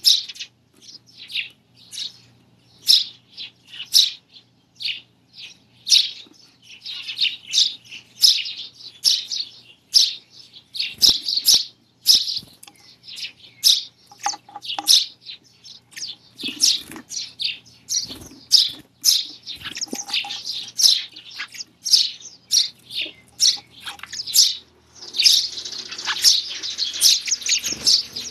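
Sparrows chirping, many short high chirps in quick, uneven runs that grow denser near the end, with a few low thuds in between.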